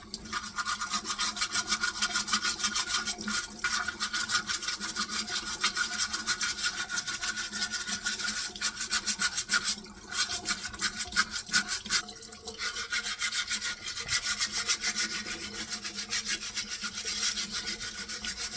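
A brush scrubbing a dishwasher's mesh filter screen in rapid back-and-forth strokes, with short pauses about ten and twelve seconds in.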